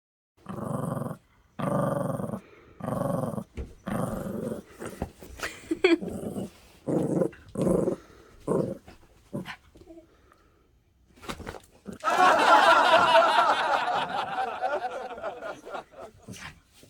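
Maltese dog growling in a string of short, evenly spaced growls, then one longer, rougher growl near the end that fades out.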